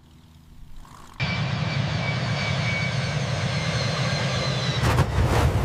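Jet aircraft engine running, cutting in suddenly about a second in: a heavy rumble with a thin whistling whine above it, surging briefly near the end.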